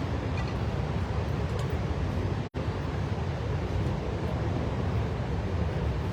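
Steady rushing roar of Victoria Falls' falling water, heaviest in the low end, cutting out for an instant about two and a half seconds in.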